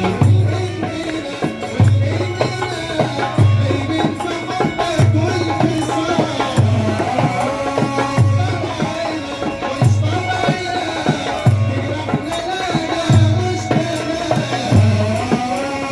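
Port Said simsimiyya folk music played live: the plucked simsimiyya lyre carries a winding melody over a steady low drum beat and hand percussion.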